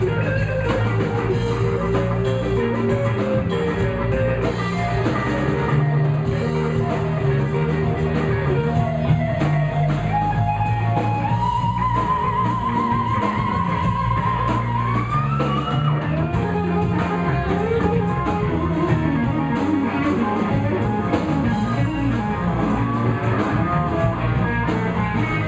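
Live blues band in an instrumental break, the lead guitar soloing over bass and drums. About halfway through, the guitar holds a high note with vibrato, then bends it up.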